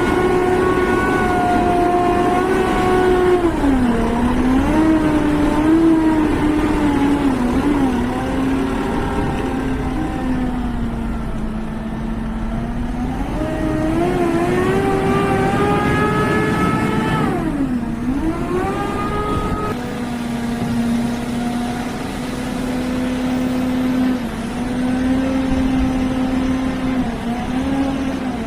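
JCB telehandler's diesel engine running with its speed rising and falling. It dips sharply about 4 seconds in, climbs steadily, drops sharply again near 18 seconds, then holds a steady speed.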